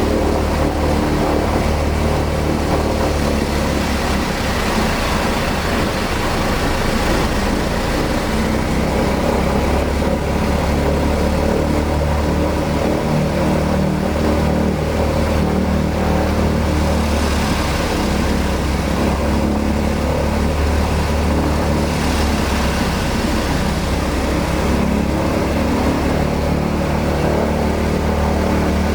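Douglas DC-6's Pratt & Whitney R-2800 radial piston engine running steadily during a ground test run, a loud, even drone heard from inside the cockpit.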